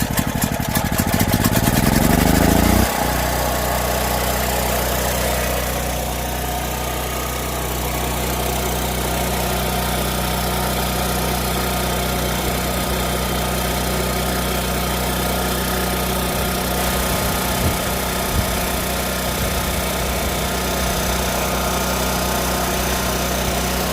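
Portable generator engine just after a push-button start: its pitch climbs for about three seconds, then drops suddenly as the choke is worked and settles into a steady, even run.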